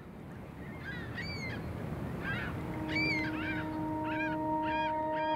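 Birds calling: repeated short, arched cries over a low rumble, fading in. From about two and a half seconds in, a steady ambient music drone starts under the calls.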